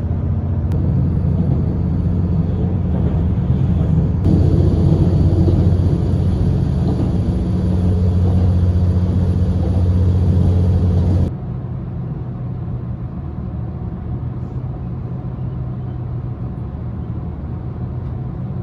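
Diesel limited-express train standing at a station with its engine idling, a steady low hum with a faint high whine over it. About eleven seconds in the hum drops suddenly to a quieter, steady level.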